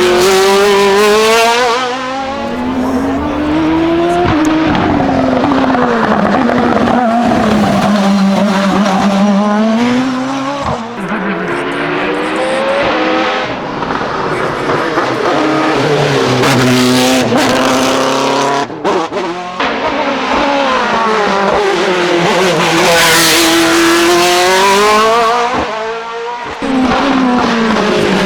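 Race car engine run hard up a hill climb, its pitch climbing and dropping repeatedly as it accelerates, shifts and brakes for corners, with short breaks in the sound partway through and near the end.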